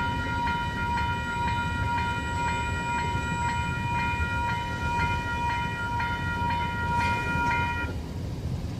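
Level crossing warning bell ringing about twice a second over the low rumble of a passing train; the bell stops near the end while the train rumble carries on.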